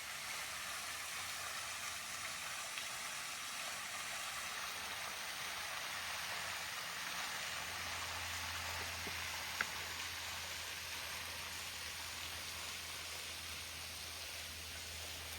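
Steady rush of a distant waterfall, water falling into a pool below. A single brief click sounds about two-thirds of the way through, and a faint low hum comes in around the middle.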